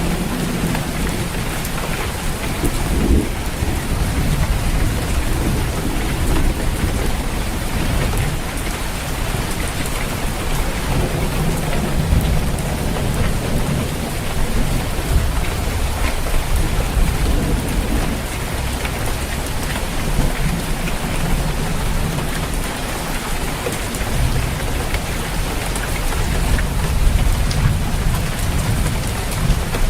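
Heavy rain falling on a roof, a dense steady hiss of drops, with low thunder rumbling underneath that swells and fades several times.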